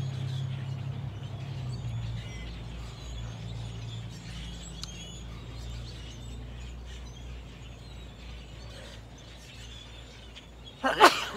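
Small birds chirping faintly over a steady low outdoor hum. Near the end comes one loud, short burp after drinking beer.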